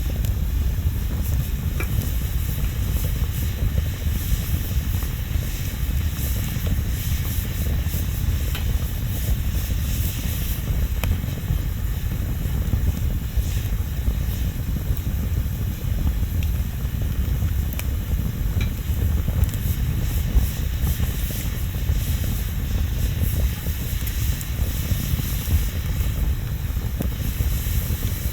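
Wood bonfire burning: a steady low rumble and hiss with a few scattered crackles and pops.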